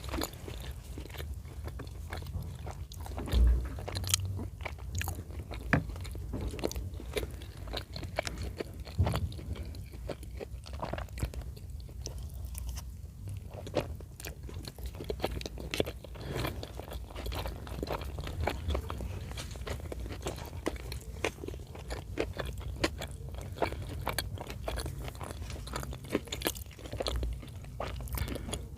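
Close-miked chewing and mouth sounds of someone eating chicken in cream sauce: a steady run of many short clicks and smacks, with a louder knock about three and a half seconds in.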